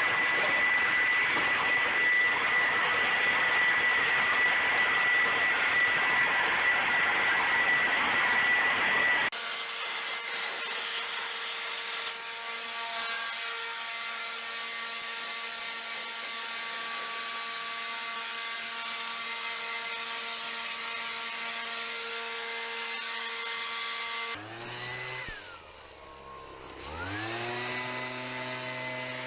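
Leaf blowers running, in three separate clips: first a steady rush of air with a high whine, then a steady engine drone, then a blower throttled down and revved back up, its pitch falling and rising again near the end.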